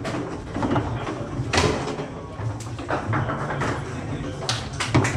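Foosball table in play: a series of sharp, irregular knocks as the ball is struck by the rod figures and bangs off the table walls, over a steady low hum.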